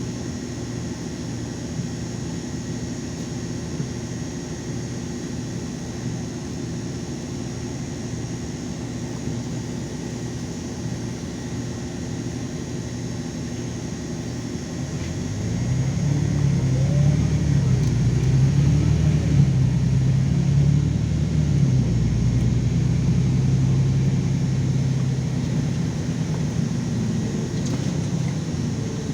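LiAZ 5292.22 city bus engine heard from inside the cabin, running at a low steady idle. About halfway through it gets louder and revs up as the bus accelerates, its pitch rising and stepping down a few times through gear changes.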